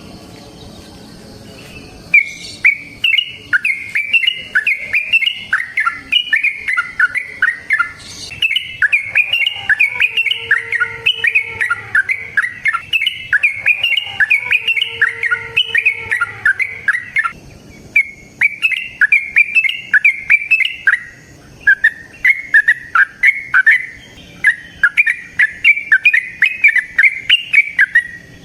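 Yellow-vented bulbul (trucukan) singing a long, rapid run of bubbly chattering notes. It starts about two seconds in and keeps going with only brief pauses.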